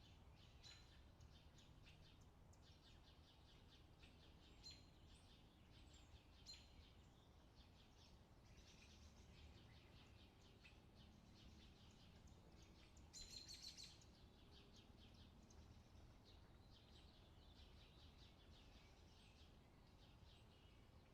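Faint outdoor summer ambience: small birds chirping and twittering over a low, steady background rumble, with a louder flurry of chirps about thirteen seconds in.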